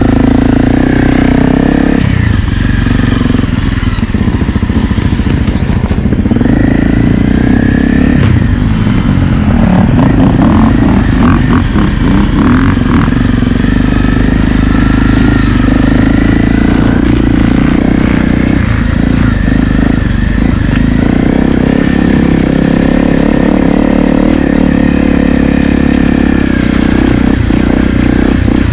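Honda CRF250L's single-cylinder four-stroke engine running continuously while being ridden, its revs rising and falling as the throttle is worked.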